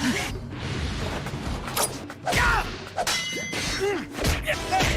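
Anime battle soundtrack: several sudden crashes and thuds mixed with cries and roars over music.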